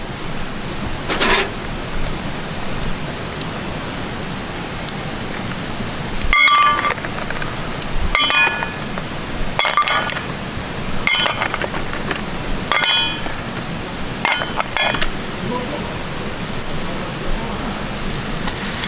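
Hard clinks of utensils against metal or glass cookware, about six ringing strikes spread over the second half, over a steady hiss.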